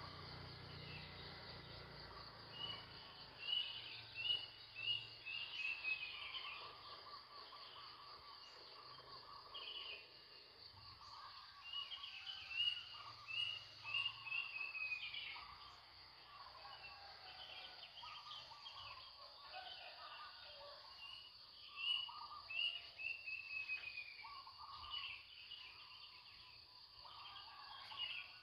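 Several birds singing at dawn: one repeats a phrase of a few quick falling whistled notes three times, about three seconds in, around twelve seconds and around twenty-two seconds, while other birds chirp over a steady faint hiss.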